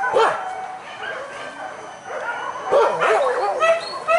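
A pack of boar-hunting dogs yelping and barking, with a run of short high yips near the end.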